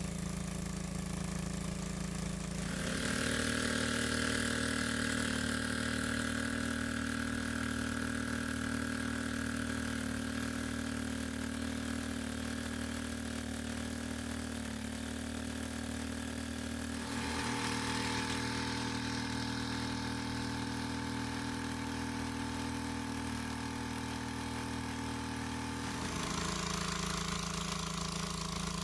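A small engine running steadily at a constant speed. Its steady tone changes abruptly a few times.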